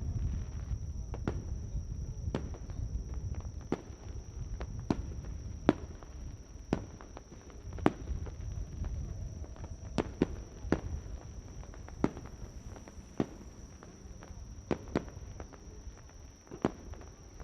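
Fireworks display: sharp bangs and cracks of shells bursting at irregular intervals, roughly one a second, over a low rumble that slowly dies away.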